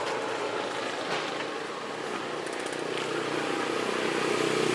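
Street ambience with a small motor vehicle's engine running and growing louder toward the end, over a steady background of road noise.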